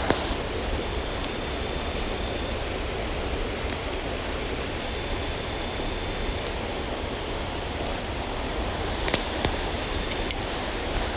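A river rushing steadily, with scattered sharp clicks over it, a louder pair a little past nine seconds in.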